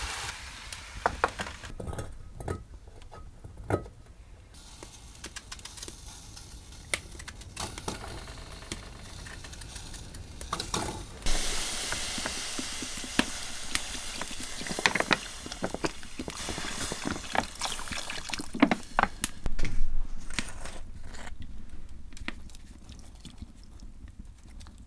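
Food sizzling in a frying pan, stirred with a utensil that clinks and scrapes against the pan. The sizzle fades and swells again about halfway through, with many short clicks and knocks.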